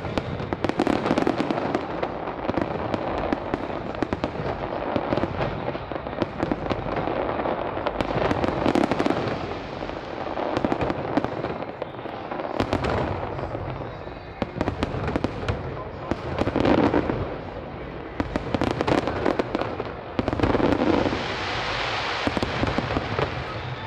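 Fireworks display: a dense run of aerial shells bursting and crackling, with louder swells of bangs every few seconds.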